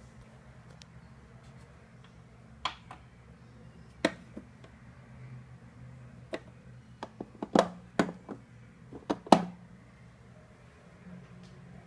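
Hard plastic toy parts being handled, giving scattered sharp clicks and knocks, most of them bunched together in the second half, over a low steady hum.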